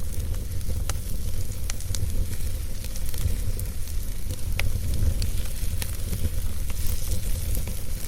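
Wood fire burning in a fireplace: a steady low rumble with sharp crackles and pops scattered irregularly, a few in each second or two.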